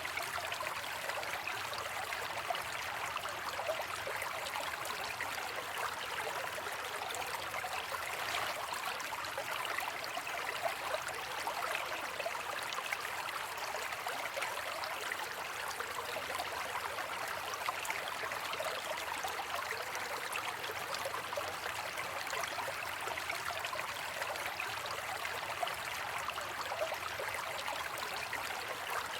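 Steady rain falling, an even wash of many small drops without a break.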